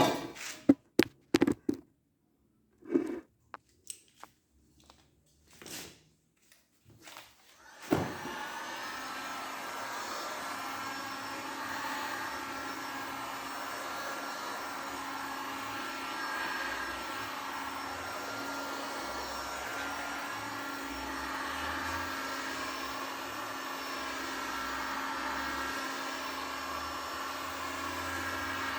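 Scattered knocks and handling clicks, then about eight seconds in a small electric motor starts and runs steadily with a whine.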